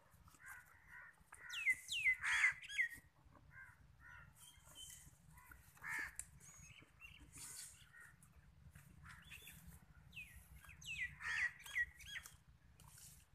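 Birds calling in two bursts of sharp, quickly falling squawks, the first about two seconds in and the second about eleven seconds in, over faint crackling and rustling of dry brush.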